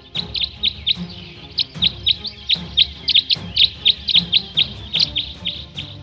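Birds chirping in a quick run of short, high, falling chirps, several a second, over a low bed of background music.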